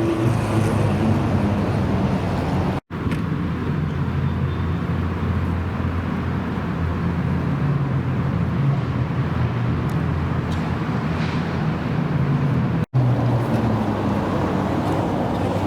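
Car engines running at idle with a low, steady exhaust note, heard as three separate stretches split by two abrupt cuts about three seconds in and about thirteen seconds in.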